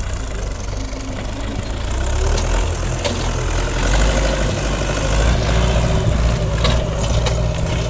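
Farm tractor engine running steadily under load while pulling a plough through the soil for first ploughing.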